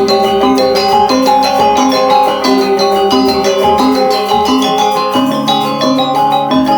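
Balinese gamelan music: bronze metallophones and gongs playing fast, dense struck notes that ring on.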